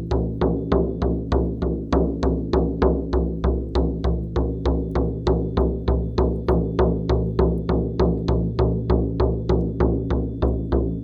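Background music: a shamanic frame drum beaten in a steady even rhythm, about three strikes a second, over a low steady hum.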